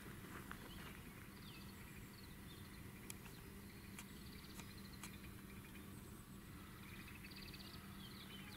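Faint songbird trills and chirps, short rapid trills every second or so, over a quiet outdoor background with a few soft clicks.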